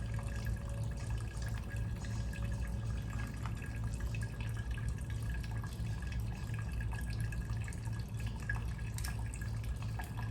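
Fuel dripping from the disconnected fuel line, over a steady low hum.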